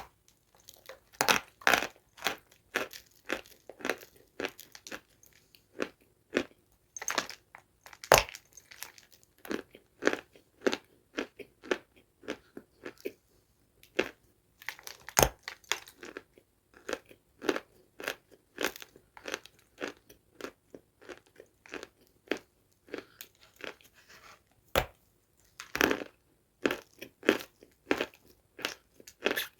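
Close-miked eating of dry, crunchy food: a person bites and chews, a steady run of sharp, crackly crunches two or three times a second, with brief pauses between mouthfuls.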